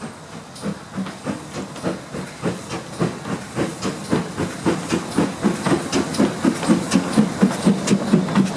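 Steam locomotive working, its exhaust chuffing in a steady beat of about three to four a second, growing steadily louder.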